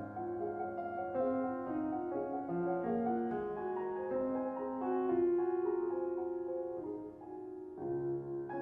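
Solo piano playing a slow classical piece: a singing melody over sustained chords, with a new low bass note struck near the end.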